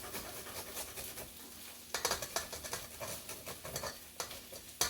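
Faint sizzling of onions and chicken frying in pans, with a few soft knocks about two seconds in and again near the end.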